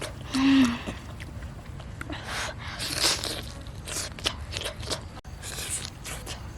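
A person chewing and crunching food close to the microphone, one bite or chew about every second. About half a second in there is a short low hummed voice sound.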